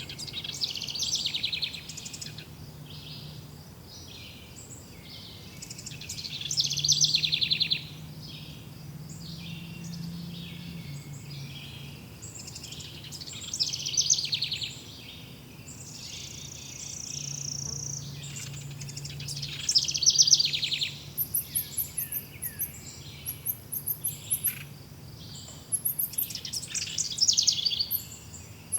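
Several songbirds singing in a forest, with phrases of fast chirps and trills every few seconds and a thin, very high rapid chirping joining in from about two-thirds of the way through. A faint low hum runs underneath.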